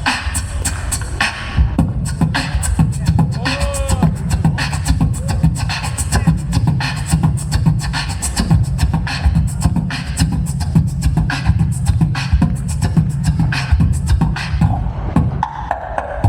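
Live beatboxing: a vocal percussion beat of rapid clicks, snares and hi-hats over a heavy, continuous bass, with a few short vocal sweeps woven in.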